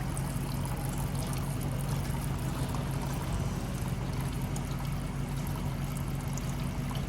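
Steady low mechanical hum of a running machine, with an even hiss over it and no change in pitch.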